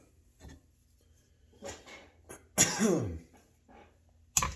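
A man coughs and clears his throat about two and a half seconds in, the sound dropping in pitch. A few sharp clicks of metal parts being handled come near the end.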